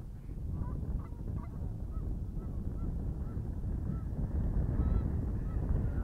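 A bird calling in a run of short, clear, slightly arched notes, a dozen or so spaced unevenly, over a low rumble of wind on the microphone.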